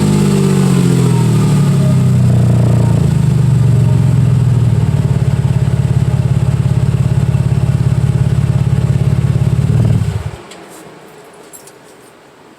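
2008 Dodge Nitro's 3.7-litre V6 running through a Thrush turbo welded muffler, its tailpipe stopping short of the back. The revs fall back to a steady idle, then the engine shuts off abruptly about ten seconds in, leaving a few faint clicks.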